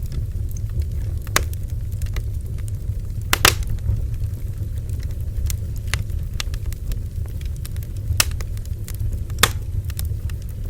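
Bonfire burning: a steady low rumble of the flames with irregular sharp crackles and pops of burning wood, the loudest about three and a half seconds in and again near the end.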